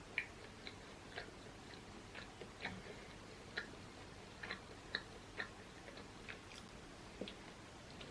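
Close-up eating sounds: irregular wet mouth clicks and chewing, short sharp clicks about one or two a second.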